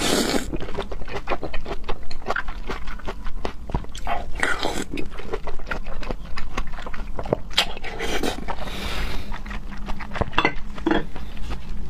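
Close-miked eating sounds: wet chewing and mouth clicks while eating raw seafood, with a few brief slurps.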